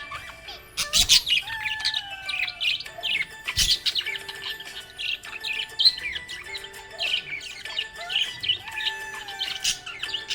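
Budgerigar chattering in a continuous run of rapid chirps and squeaky warbles, with two sharp knocks about a second and three and a half seconds in.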